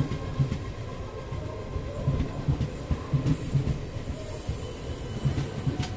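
Passenger train running on the rails, its wheels clattering over rail joints at about three beats a second over a steady rumble.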